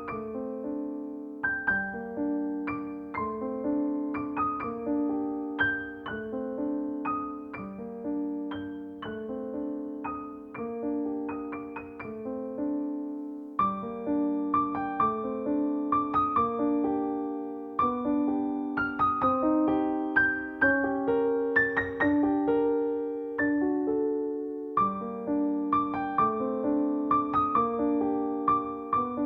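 Background piano music: a gently flowing, repeated pattern of notes and chords, growing a little fuller about halfway through.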